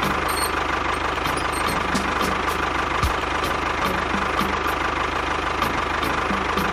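A small motor running steadily, with a fast fine rattle and a steady high whine.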